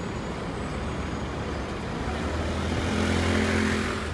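City street traffic. In the second half a motor vehicle's engine passes close by as a low steady hum, growing louder before it cuts off near the end.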